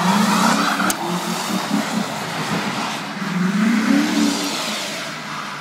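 2003 Chevy Silverado pickup's engine revving as the truck spins a donut on snow, with the hiss of spinning tyres. The engine pitch climbs a few seconds in and then drops away.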